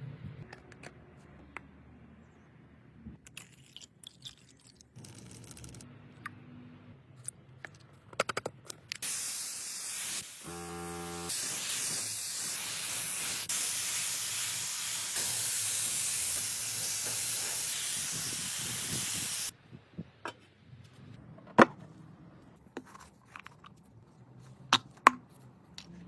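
A spray hissing steadily for about ten seconds, like a spray can or paint spray gun at work on a restoration part, with a brief buzz near its start. Scattered light clicks and knocks come before and after.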